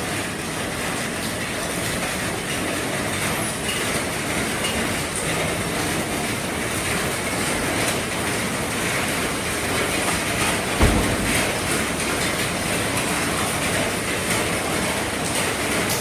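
Heavy rain drumming steadily on an RV's roof, with a single dull thump about eleven seconds in.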